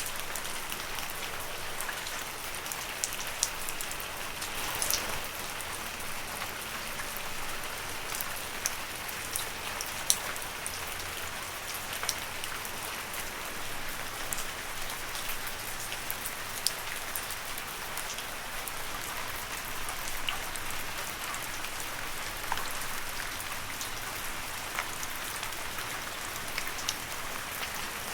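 Steady rain falling on leaves, an even patter with frequent sharp, close drop hits.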